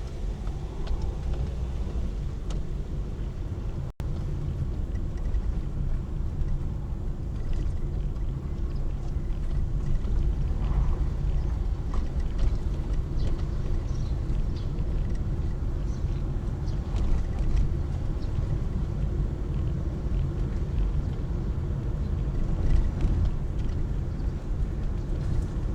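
Steady low rumble of road and engine noise inside a moving car, with a brief dropout about four seconds in.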